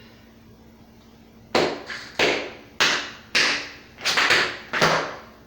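Tap shoes striking a hard floor: after a quiet start, about a second and a half in, a run of about eight sharp metallic taps, roughly two a second, in an uneven dance rhythm.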